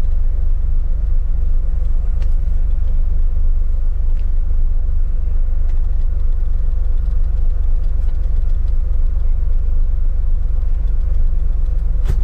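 Manual car's engine running steadily at low revs: an even low rumble, with a few faint clicks.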